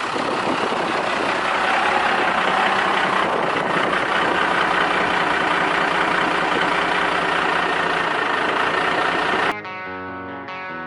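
1997 Dodge truck's Cummins 5.9-litre straight-six turbo diesel running steadily at idle through a double-stack exhaust, soon after a cold start. About a second and a half before the end it cuts off abruptly into rock guitar music.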